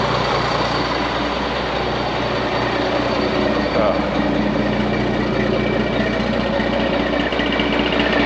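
Truck engine running loud and steady, slightly rising in the middle, with its exhaust pipe broken off so it sounds straight-piped.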